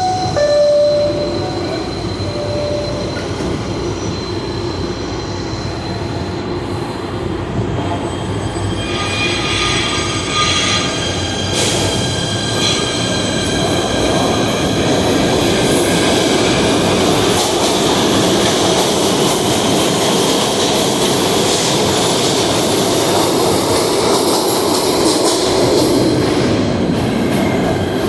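PATH subway train running through an underground station: a steady rail rumble, with high-pitched steel wheel squeal building from about a third of the way in and going on to the end.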